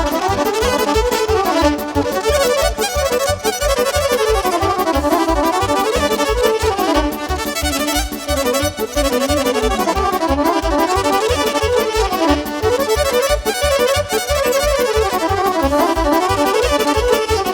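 A live band playing an instrumental Romanian folk dance tune with a steady beat and a running melody, without singing.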